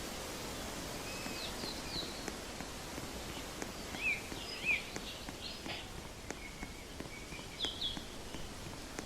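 Outdoor ambience: birds chirping in short, scattered calls over a steady background hiss. The two loudest chirps come about four and five seconds in, and a few faint ticks are heard.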